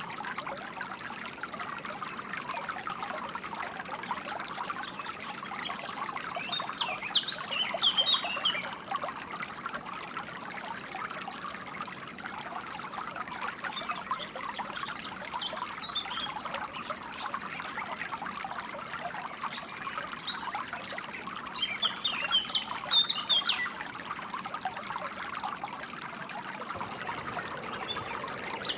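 Water trickling and bubbling steadily over stones, with songbirds chirping in short, quick phrases every few seconds above it.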